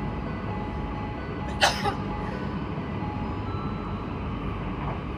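Running noise inside a Kintetsu 22000 series train: a steady rumble of the wheels on the rails with faint steady tones above it. A brief sharp noise stands out about one and a half seconds in.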